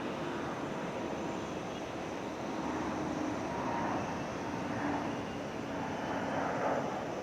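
Large twin-engine jet airliner in display flight: a steady rushing jet engine sound with faint tones running through it, growing a little louder in the second half.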